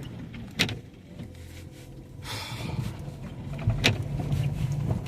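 Car cabin rumble from driving on a snowy road, with a sharp click about half a second in, a brief hiss around the middle and a louder knock near the end.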